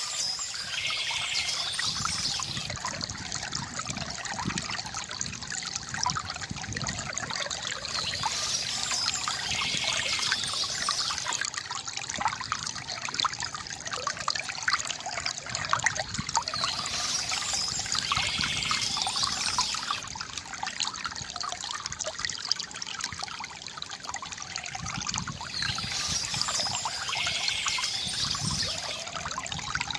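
Water trickling and splashing steadily from a bamboo fountain, with a brighter high-pitched burst that recurs about every eight to nine seconds.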